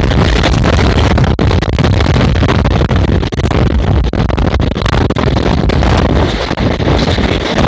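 Passenger train running at speed, heard through an open window: a loud, steady rush of wheel-and-rail noise with wind buffeting the microphone.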